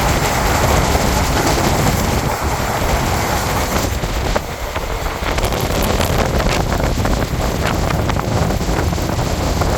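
Express train passing at high speed: a loud, steady rumble and rush of air buffeting the microphone, with a run of sharp clicks from about halfway on.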